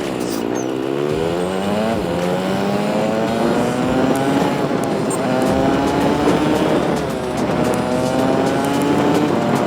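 TVS Apache RTR 200 4V's single-cylinder engine under way, its pitch falling briefly at the start and then climbing as the bike accelerates. The pitch drops twice between climbs as it shifts up through the gears, over steady wind and road noise.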